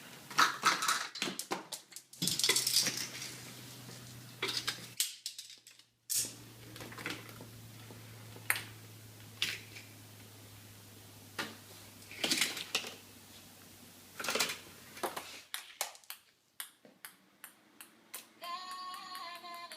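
Clattering and clicking of hard objects being handled, like dishes or utensils, over a low steady hum that drops out a few times. A short bit of music begins near the end.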